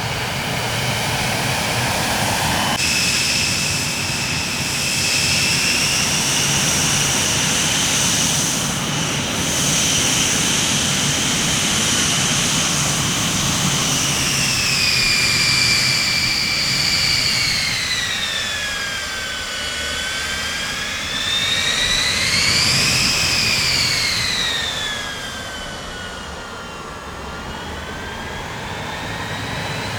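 Jet aircraft engines running with a high turbine whine over a steady rumble. The whine holds level, slides down about halfway through, swells up and back down briefly a little later, then settles lower as the engines grow quieter near the end.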